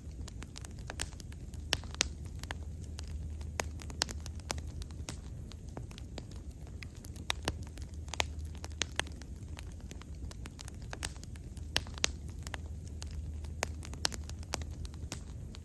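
Wood fire burning: irregular sharp crackles and pops from the burning wood over a steady low rumble of the flames.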